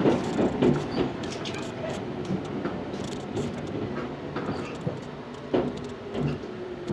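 Interior running sound of a Tobu 634-series train slowing on the approach to a station: wheel clicks and knocks over the rails over a steady rumble, with a faint low tone that falls gently as the train loses speed.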